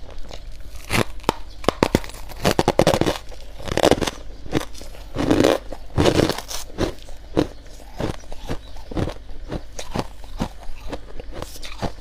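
Frost being bitten and chewed close to the mouth: a run of loud, hard crunches through the first half, then softer, crackly chewing.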